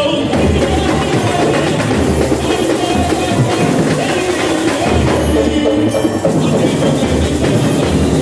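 Samba school bateria (drum section) playing a samba: surdo bass drums beating a steady pulse about once a second under dense, busy higher percussion.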